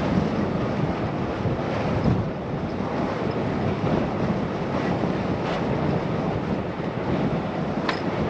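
Wind rushing over a helmet- or bike-mounted action-camera microphone while cycling, a steady buffeting noise with a few faint ticks.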